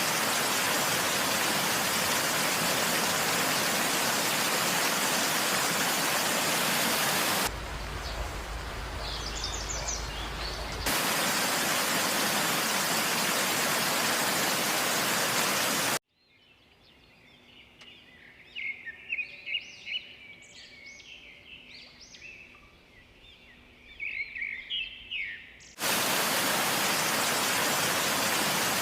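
A steady, loud rushing noise with no pitch, broken by two quieter stretches in which small birds chirp repeatedly, most busily in the longer second stretch.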